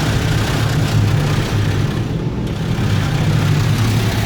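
Water spray from a touchless car wash's rotating arms hitting the minivan's body, heard from inside the cabin as a steady hiss over a low rumble.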